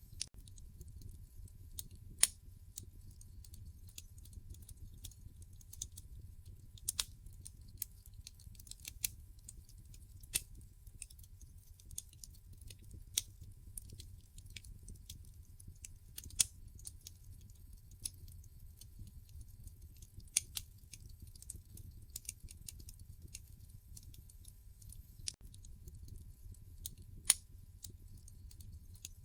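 Wood fire in a fireplace crackling: irregular sharp pops and snaps, a few of them much louder, over a low steady rumble.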